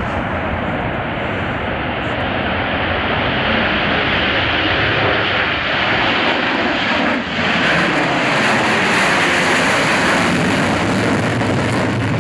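Tupolev Tu-160 'Blackjack' supersonic bomber taking off, its four afterburning jet engines running at full power in a loud, steady roar that grows a little louder in the second half, with a brief dip about seven seconds in.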